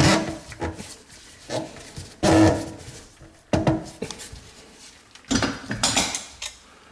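Irregular clunks, knocks and scraping of metal against a kitchen sink as a new basket strainer is worked tight from below, some with a short ring from the sink.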